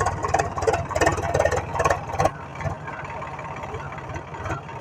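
An engine idling with an even, steady low pulsing. A voice is heard over it for about the first two seconds.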